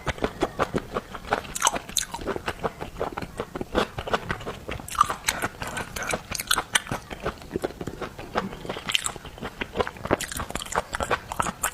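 Close-miked mouth sounds of someone chewing arctic surf clam meat: many quick, irregular wet smacks and clicks of biting and chewing.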